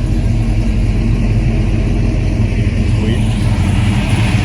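Classic car engine idling with a steady low rumble.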